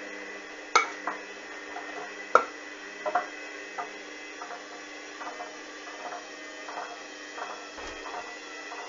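Hoover front-loading washing machine drum turning slowly, with a run of knocks as the wet load drops inside it. There are two loud knocks early on, then softer ones about every 0.7 s over a steady hum. The machine is tumbling to rebalance an unbalanced load before it tries to spin again.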